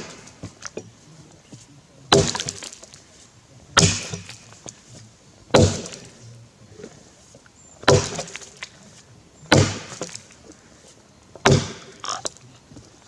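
Tassie pattern axe chopping into a Grey Gum log: six heavy blows about every two seconds, each a sharp thwack with a brief crackle of wood after it.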